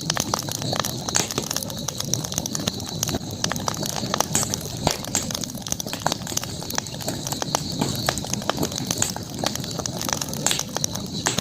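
Campfire crackling, with frequent irregular sharp pops and snaps over a steady high hiss.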